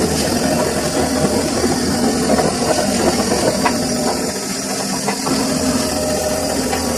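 Samsung washing machine running: a steady motor hum with scattered clicks and rattles, easing off briefly a little past the middle.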